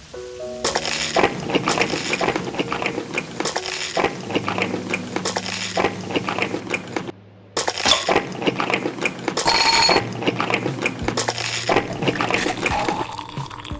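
Spoons and cutlery clinking and tapping against glass dishes and cups while desserts are eaten, in a dense run of small knocks. One clink rings out near ten seconds in.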